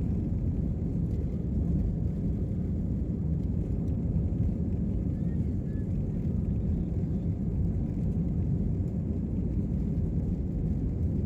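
Steady low rumble of a jet airliner heard inside the passenger cabin, an even drone of engine and airflow noise that holds constant throughout.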